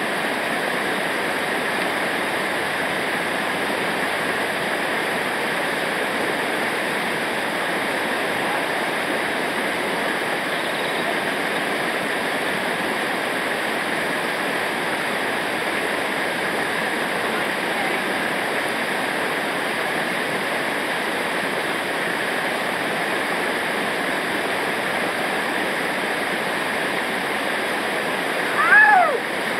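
Steady, unbroken rush of fast-flowing river water over rapids.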